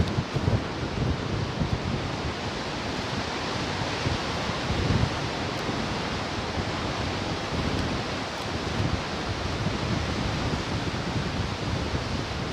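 Ocean surf washing in as a steady hiss, with occasional low gusts of wind buffeting the microphone.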